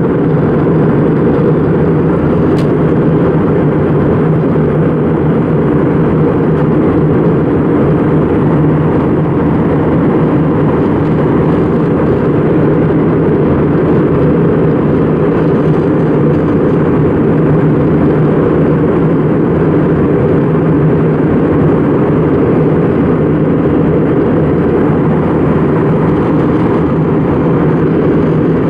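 Steady, loud cabin noise inside an Airbus A320 in flight: an even rumble of engines and airflow, with no change in pitch or level.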